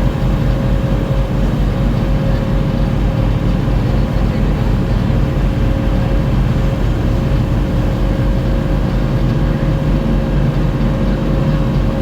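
Friendship Boat's engine running steadily under way, a loud, even low drone with a faint steady whine above it, as heard from the stern seats.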